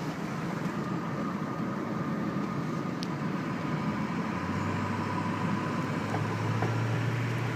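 Strong wind and wind-whipped lake waves with whitecaps: a steady rushing noise, with a low hum swelling in the second half.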